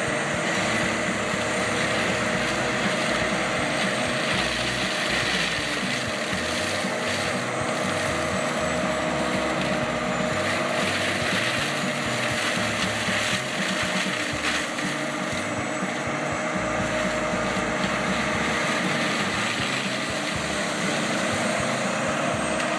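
Heavy machinery engine running steadily with a constant whine.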